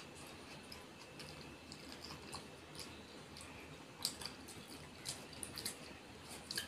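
Faint wet chewing and lip smacks of a person eating by hand, with scattered soft clicks that cluster about four seconds in and again a little before the end.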